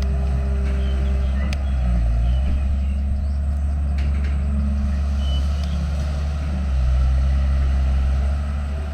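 Diesel engine of heavy earthmoving machinery running under load, its pitch stepping up and down as the machine works, with a couple of sharp clicks.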